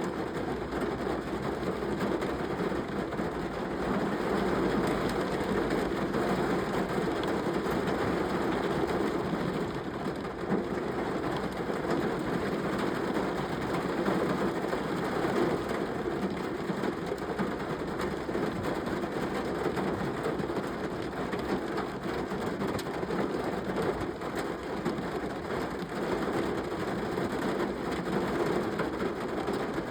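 Steady rain falling, an even, continuous patter with no breaks.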